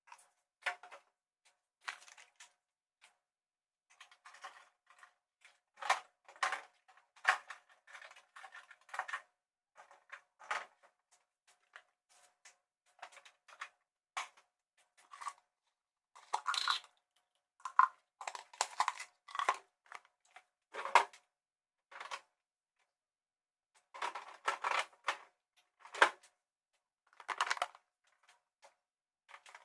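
Irregular clicks, clatters and rustles of containers and items being handled during refrigerator cleaning, coming in quick short bursts, with a faint steady tone underneath.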